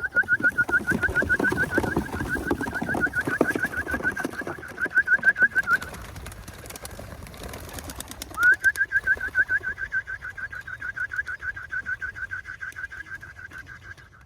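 Racing pigeons' wings flapping and clapping as the flock takes off. Over this, a high, rapid chirping trill at one steady pitch runs about six seconds, stops, and starts again a couple of seconds later.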